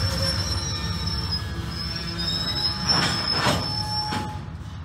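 Empty steel gondola freight cars rolling slowly past, wheels squealing in one steady high tone over a low rumble of the wheels on the rails. Two louder surges of squeal and rattle come about three seconds in, then the sound fades as the cars move off.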